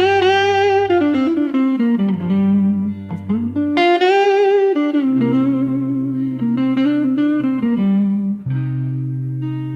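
Slow blues instrumental: an electric guitar plays a lead line of held, bending notes that slide down over sustained bass notes.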